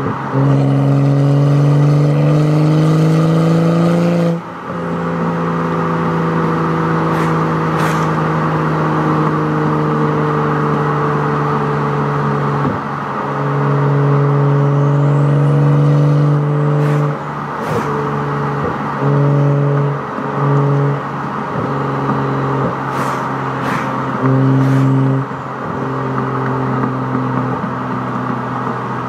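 BMW N55 turbocharged straight-six running through an aftermarket quad exhaust and downpipe: the note climbs in pitch for about four seconds, drops off abruptly, then holds and slowly settles. In the second half it gives a series of short revs, with a few sharp clicks along the way.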